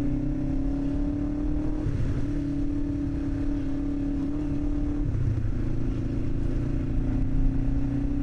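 Small 125cc commuter motorcycle engine held at high, steady revs on a speed run, its note breaking briefly about two and five seconds in, with a heavy low rumble of wind and road noise underneath.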